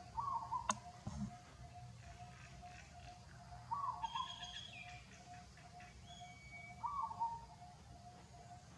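An animal's short call, repeated about every three seconds, over a steady pulsing tone, with a few higher chirps midway and one sharp click near the start.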